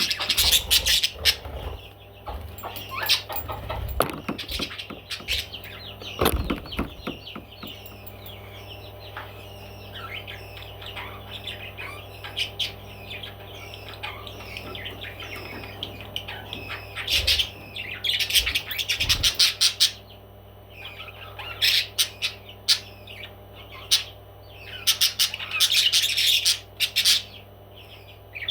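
Pet parrots chirping steadily, with loud squawks breaking out in bursts through the second half.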